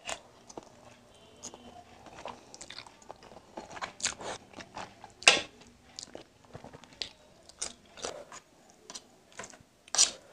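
Close-miked mouth sounds of eating egg noodles: wet chewing with irregular sharp lip smacks, the loudest about five seconds in and a few more near the end.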